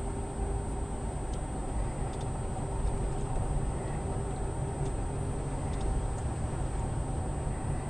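Steady low rumble of a car, heard from inside the vehicle, with a few faint ticks.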